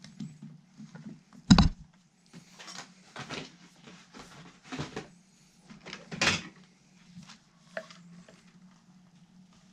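Workbench handling sounds during guitar assembly: a sharp knock about a second and a half in, then scrapes and rustles and another clunk a little after six seconds, over a steady low hum.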